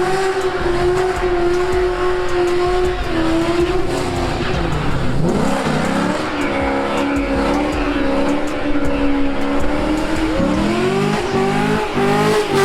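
A car's engine held at high revs while its tires spin in a burnout, the pitch dipping about five seconds in and climbing back, then revved in several quick rising bursts near the end.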